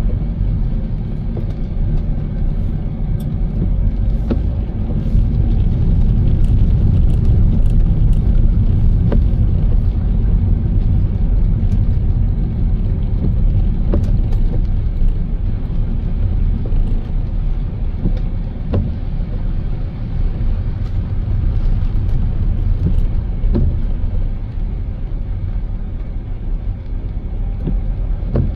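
Car driving: a steady low rumble of road and engine noise, with scattered faint ticks over it.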